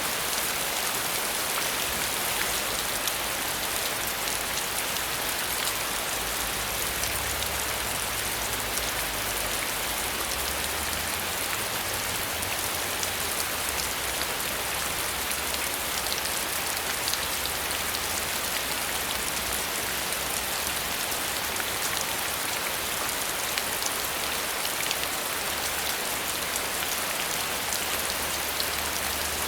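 Steady rain falling, a continuous hiss of raindrops striking a surface with fine individual drop ticks throughout.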